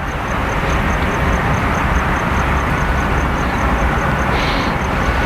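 Loud steady rumble and rush of a passing vehicle, with a faint high tick repeating about four times a second.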